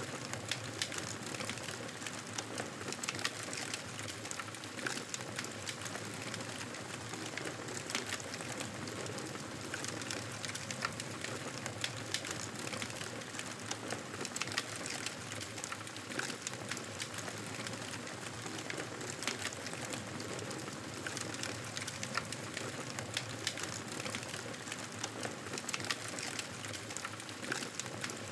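Campfire burning with a steady hiss and frequent irregular crackles and pops of burning wood.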